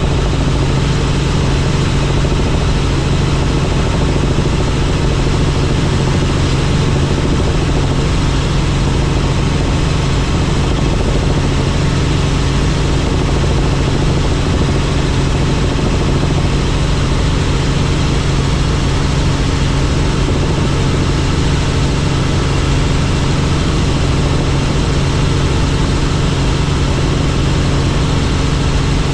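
Helicopter engine and rotors running steadily in flight: a constant low hum with a few fixed tones over an even hiss, unchanging throughout.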